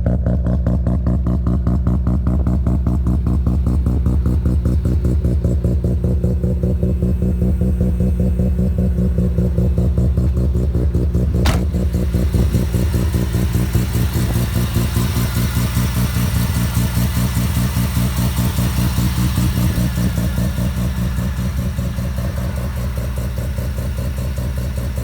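Mazda RX-7 FD3S's bridgeported 13B twin-rotor engine idling with a choppy, pulsing exhaust note. About halfway through there is a sharp click, and from then on the exhaust sounds much raspier, as the remote-controlled exhaust valve is switched.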